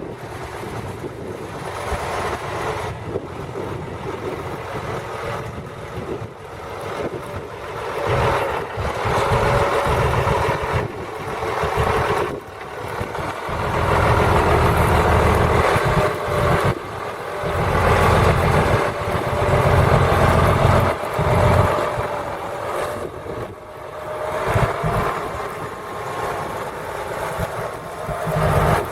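County 1184 four-wheel-drive tractor's diesel engine running steadily while pulling a plough, its sound getting louder and quieter several times.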